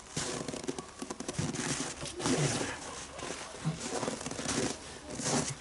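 Dogs running about: an irregular patter and rustle of paws on the ground, with a few short low sounds.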